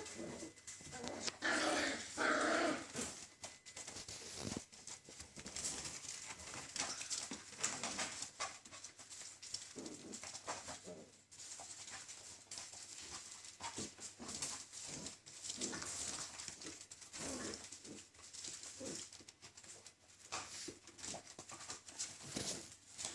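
Six-week-old puppies vocalising, loudest about one to three seconds in, amid many small clicks and rustles.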